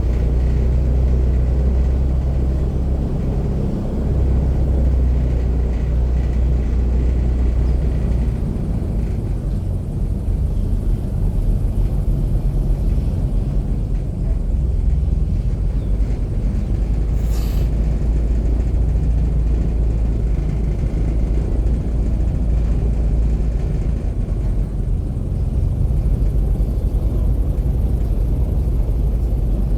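Airboat engine and propeller running steadily under way, a loud deep drone.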